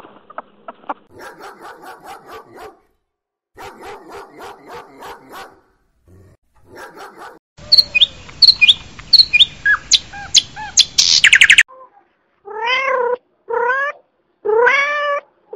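Meerkats calling in short bouts of rapid pulsed chirrs. A northern cardinal follows with a series of sharp, down-slurred whistled notes, and then a cat meows three times.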